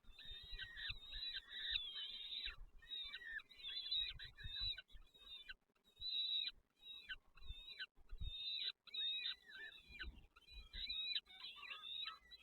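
Nestling birds calling, a dense run of rapidly repeated high-pitched cheeps in several overlapping voices that break off for moments and start again. Scattered low bumps sound beneath them.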